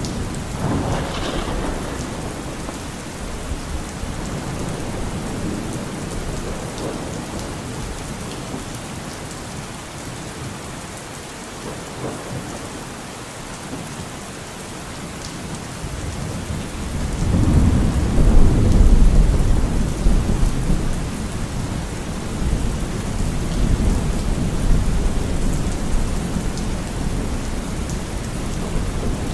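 Steady rain falling, with low thunder rumbling under it; a long, louder roll of thunder builds a little past halfway and slowly fades.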